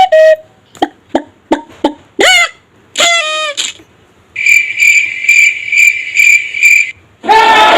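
Played-back funny sound effects: a quick run of short pitched blips and swooping cartoon-like glides, then a cricket-like chirping repeating about two to three times a second. A sudden loud, noisy burst of sound comes near the end.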